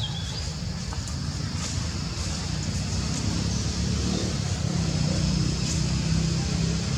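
A steady low rumble that grows a little louder after the middle.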